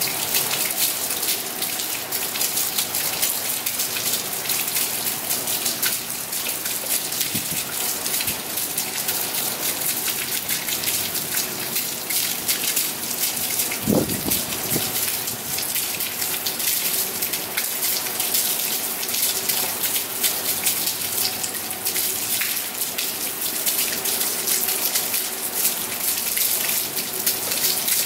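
Heavy rain falling steadily, an even hiss with a brief low thump about halfway through.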